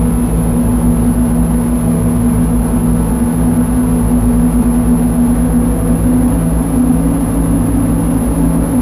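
Dark ambient drone from a Lyra-8 analog synthesizer: a dense, steady low drone with held tones and a thin high whine above, unchanging throughout.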